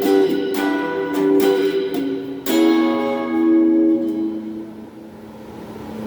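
Donner Q1 HSS strat-style electric guitar played through a small Cahaya amp with a phaser and a JHS Hall reverb pedal: picked chords in a steady rhythm, then about two and a half seconds in a chord struck and left to ring and fade away.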